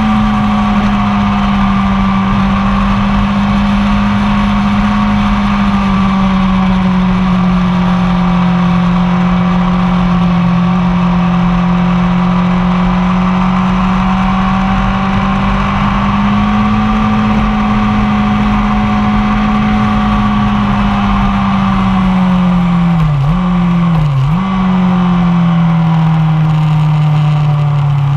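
A 1999 Yamaha R1's four-cylinder engine runs at steady high revs for most of the stretch. About 23 and 24 seconds in, the pitch dips sharply twice, and then the revs fall away near the end.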